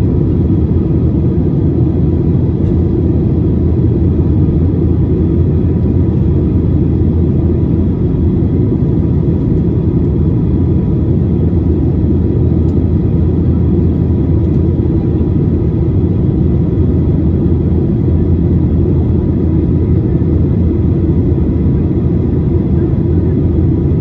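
Steady low rumble of cabin noise inside a Boeing 737-800 airliner: engine and airflow noise at a constant power setting, with no change in pitch or level.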